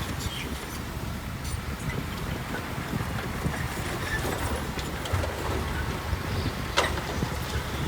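Heavy diesel earthmoving machinery running with a steady low rumble, with a few small clicks and a sharp knock about seven seconds in.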